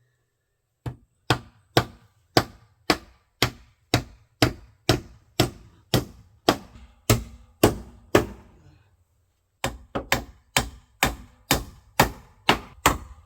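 Hammer blows on wood in a steady rhythm, about two a second. They stop briefly about nine seconds in, then resume a little faster.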